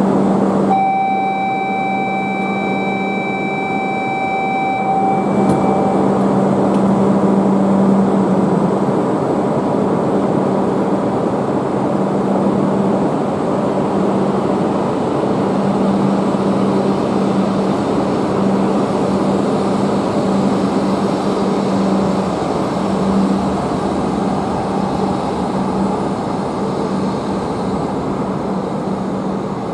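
E5 series Shinkansen train at the platform. A steady electronic warning tone sounds for about four seconds as the doors close, then the train pulls away with a steady hum and broad running noise.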